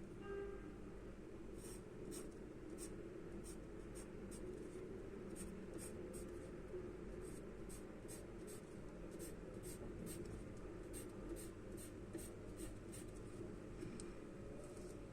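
Charcoal scratching across drawing paper in short, quick strokes, about two to three a second, as an artist shades. There is a brief squeak near the start.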